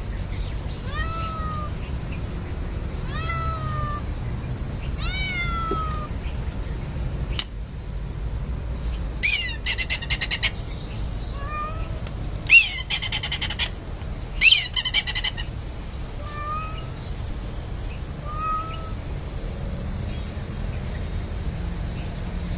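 A cat meowing repeatedly, each call rising then falling in pitch, about one call every second and a half. Three louder, higher-pitched calls come about nine, twelve and fourteen seconds in, each trailing into a short rattle.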